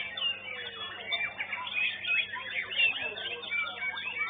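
Many caged songbirds singing at once in a contest: a dense tangle of overlapping whistles, chirps and trills, over a steady low electrical hum.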